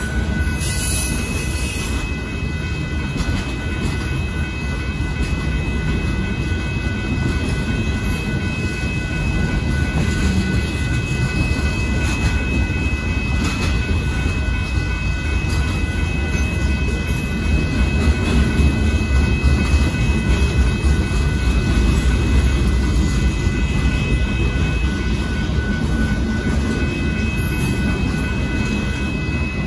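CSX freight train of boxcars rolling steadily past at a grade crossing: a continuous low rumble of wheels on rail, with a steady high-pitched tone over it.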